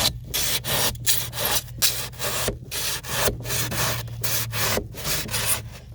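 Drywall knife sawing back and forth through pour-in polyurethane flotation foam in a boat hull: a steady run of rasping strokes, about one and a half a second.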